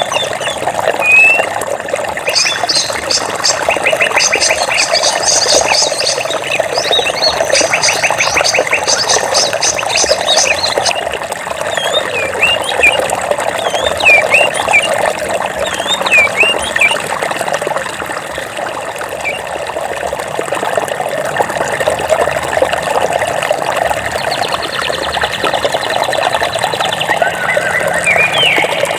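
Steady rush of flowing water, with birds calling over it: fast rattling trills through the first third, then short separate chirps, and another trill near the end.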